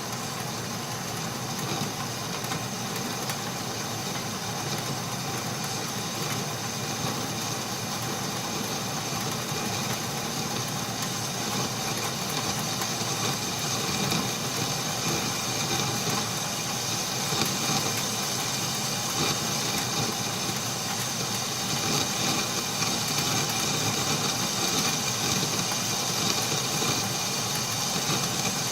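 Atlas metal lathe running steadily through a boring cut in hot-rolled mild steel, with a constant high whine over the machine noise.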